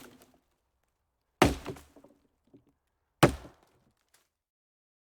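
Two sharp knocks, about two seconds apart, each dying away within half a second, with the fading tail of an earlier knock at the very start.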